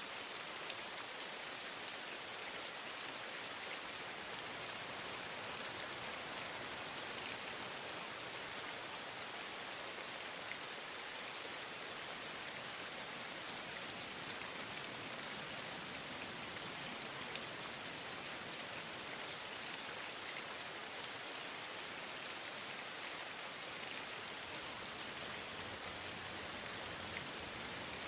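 Steady rain falling, with many small drop taps scattered through an even hiss.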